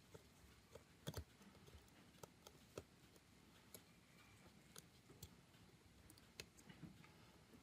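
Faint, irregular small clicks and taps of hand tools and parts being handled while a smartphone is worked on.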